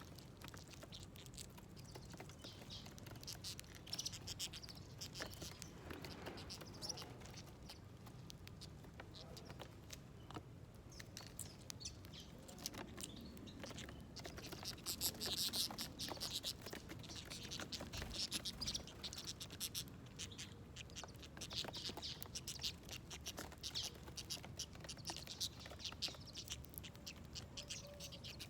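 Small birds chirping and pecking at seeds on a feeder plate: a dense run of small clicks and taps, with bouts of high chirping, busiest in the middle and latter part.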